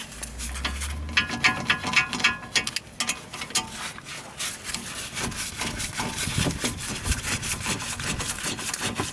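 Metal tools working on disc brake hardware: a quick run of ringing metallic taps and clinks in the first few seconds, then irregular scraping and rubbing of metal on metal.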